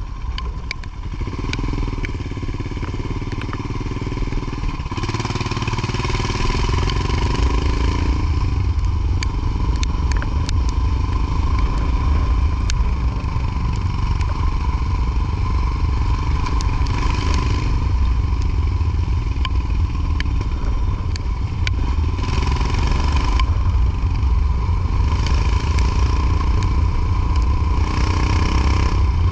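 Motorcycle engine running under way, with a heavy steady low rumble throughout. The engine note shifts in pitch a few times in the first eight seconds.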